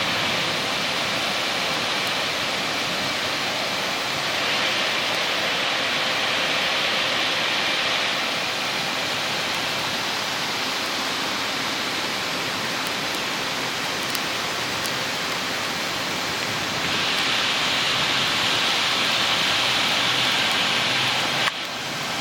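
Floodwater rushing and pouring in a steady, loud roar like a waterfall. It grows louder and hissier twice, for a few seconds each time.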